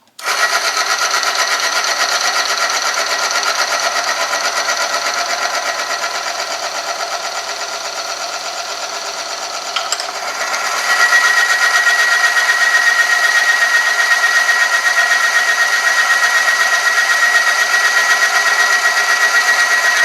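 Oil-film friction test machine starting up: an electric motor spins a shaft against an oil-lubricated metal sample with a steady mechanical whirr. About halfway through there is a click, then the machine gets louder and a steady high-pitched squeal of metal rubbing on metal sets in.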